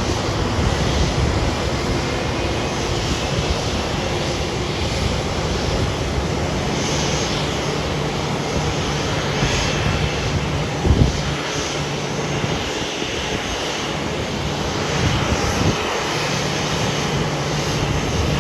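Boeing 737 jet engine starting up and running: a steady roar with a low hum, and one brief knock about eleven seconds in.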